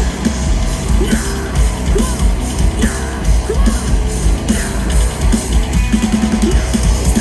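Live heavy rock band playing loudly through a PA: distorted guitars and a drum kit keeping a steady beat of about two hits a second.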